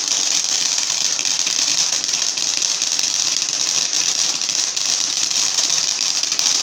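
Firework fountain burning: a steady crackling hiss of spraying sparks.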